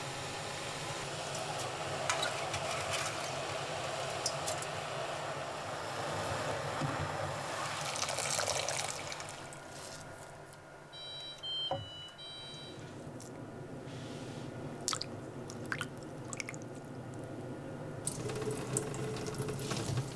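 Kitchen sounds: water running and splashing for the first half, then a short run of electronic appliance beeps about eleven seconds in, followed by scattered clicks and knocks.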